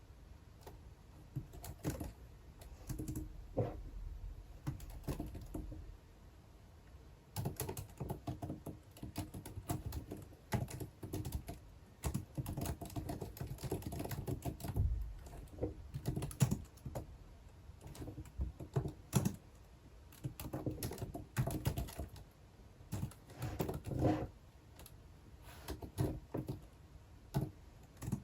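Typing on a computer keyboard: scattered taps at first, then fast runs of keystrokes from about seven seconds in, broken by short pauses.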